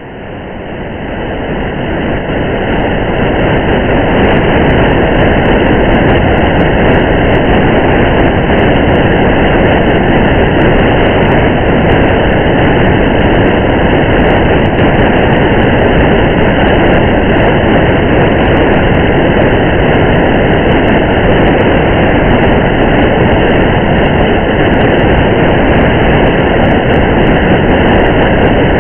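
Steady road and rain noise of a car driving on a wet highway, an even rushing rumble that fades in over the first few seconds and then holds level.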